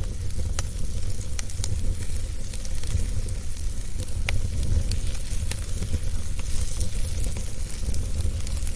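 Wood fire burning in a fireplace: a steady low rumble and hiss of the flames with scattered, irregular sharp crackles and pops.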